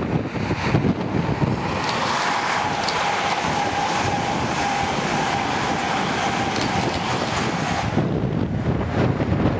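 High-speed express passenger train passing close by at speed: a steady rush of wheels on rail and air, with a thin steady whine, dying away about eight seconds in.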